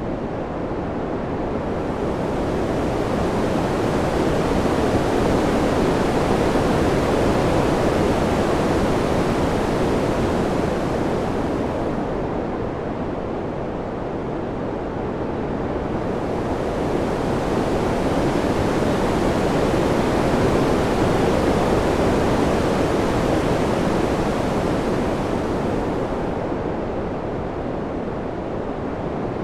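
Wind, a steady rushing with no gusts or whistles, that slowly swells and eases twice, about every fourteen seconds.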